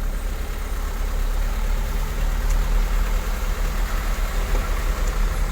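Vehicle engine running at low speed in slow-moving flood traffic, a steady low rumble.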